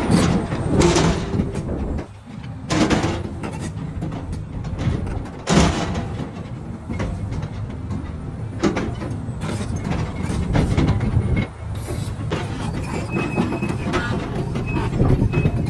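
Sany crawler excavator moving on its steel tracks: irregular metallic clanks and knocks from the track links over the diesel engine's steady drone, with a thin squeal near the end.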